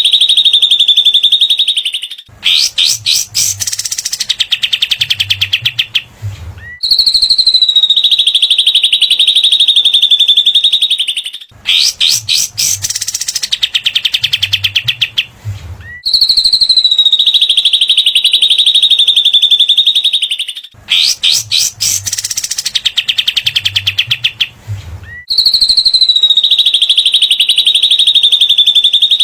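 Looped recording of cililin and kapas tembak (katem) bird songs used as masteran: a long, high whistle alternating with a fast rattling trill, the pattern repeating about every nine seconds.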